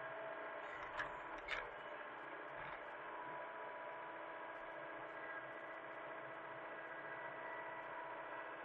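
A machine running steadily, a constant hum with a few faint whining tones, with two short clicks about a second in.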